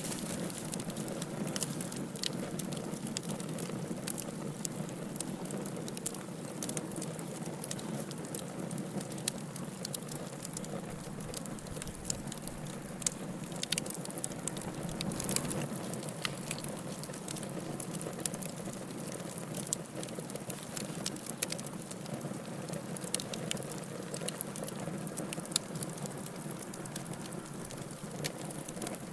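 Wood fire in a fireplace crackling: frequent small sharp pops and snaps, a few louder ones, over a steady low rush of the flames.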